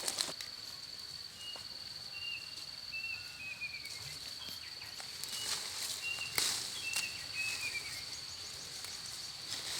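Outdoor insect chorus: a steady high-pitched insect drone, with birds giving short falling chirps in two runs and a short click about six and a half seconds in.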